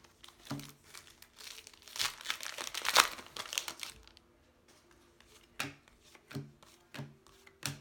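Crinkly foil wrapper of a baseball card pack being torn open and crumpled, loudest about three seconds in, followed by a few short taps as the cards are handled.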